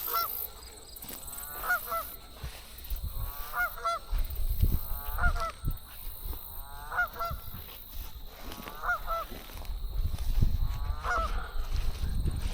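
A goose honking over and over at an even pace, about once every second and a half to two seconds, as an alarm or warning call. Low rumbles come and go underneath.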